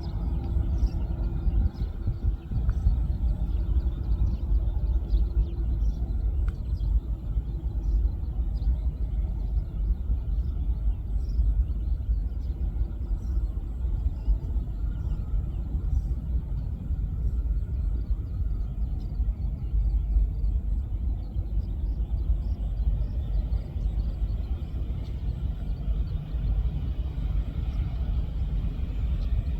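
Steady low rumble of airport background noise, with a faint humming drone that fades in and out.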